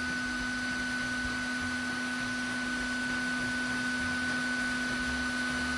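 Steady running whine of the vacuum used to suck up the honeybees: a low hum and a higher tone held at constant pitch throughout.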